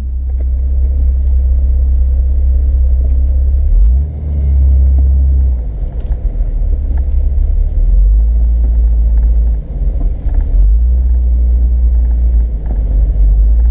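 Off-road vehicle driving along a trail, heard as a steady low rumble that dips briefly about four seconds in and again near ten seconds.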